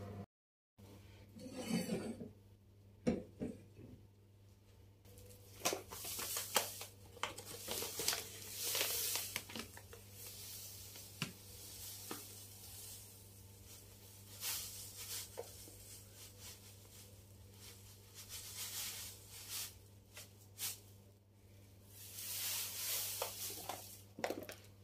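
Kitchen items being handled: rustling packaging and light knocks and clinks of containers, over a faint steady hum.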